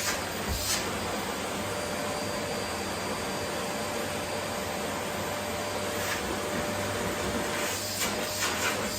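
Vacuum cleaner running steadily, an even rushing drone with a faint steady whine, broken by brief louder rushes of hiss about half a second in, at about six seconds, and twice near the end.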